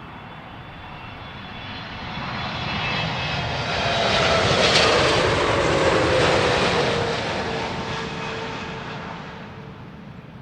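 Jet airliner passing low overhead on its landing approach: the engine noise swells to a peak about halfway through and then fades, with a whine that drops in pitch as it goes by.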